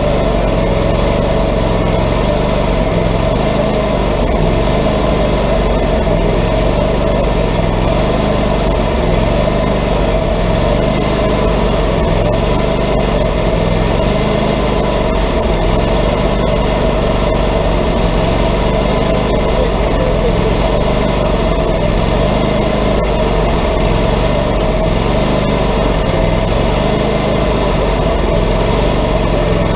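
Wood-Mizer LT40 hydraulic band sawmill running steadily, its engine driving the band blade as it saws along a small log.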